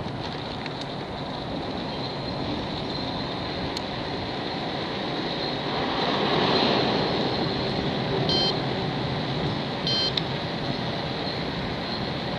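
Steady traffic noise, with a vehicle passing close and its noise swelling about six seconds in. Two short high beeps sound near the end, about a second and a half apart.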